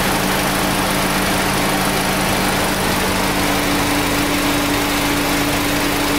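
VW Golf R Mk7.5's 2.0-litre turbocharged four-cylinder engine idling with a steady hum, kept running to hold the DQ381 DSG gearbox oil warm and circulating.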